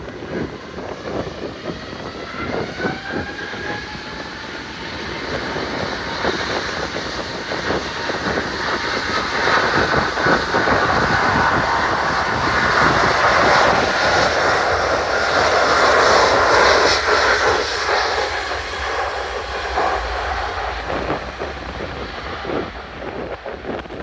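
Airbus A350 departing under takeoff power, its Rolls-Royce Trent XWB engines giving a rising whine that swells into a loud jet rush, peaks past the middle, then fades as the aircraft climbs away. Wind buffets the microphone throughout.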